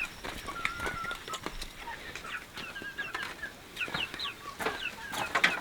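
Chickens clucking, with many short high chirps throughout and a few sharp knocks near the end, the loudest of them just before the end.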